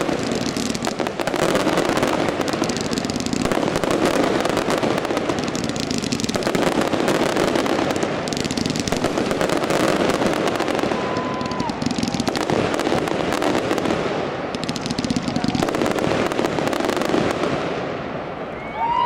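Fireworks going off in a dense, continuous barrage of bangs and crackling, thinning out near the end.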